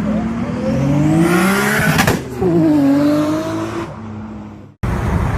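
Modified Nissan Skyline R34 GT-R's twin-turbo straight-six revving hard under acceleration, its pitch climbing for about two seconds. The pitch then drops sharply and falls away as the sound fades. Near the end it cuts to a steadier, rougher engine-and-road noise.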